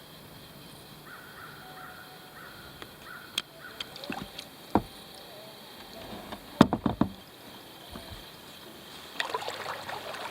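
Kayak paddling: the paddle dips and splashes, with sharp knocks of the paddle against the kayak's hull, the loudest cluster a little past the middle.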